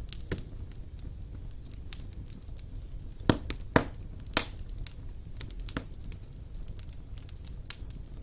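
Wood fire burning in a fireplace: irregular crackles and sharp pops of burning logs over a low steady rumble, with a cluster of louder pops a little before the middle.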